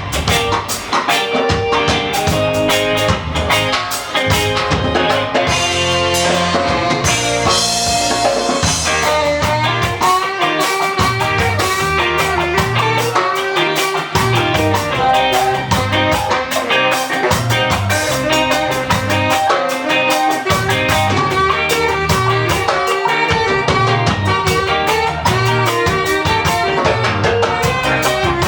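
Live ska band playing, with drum kit and guitar over a steady beat and a brief swell of cymbal about a quarter of the way through.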